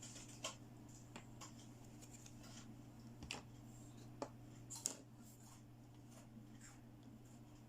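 Light handling of small plastic toy pieces: soft rustling and a few sharp clicks and taps, the loudest about five seconds in, over a steady low hum.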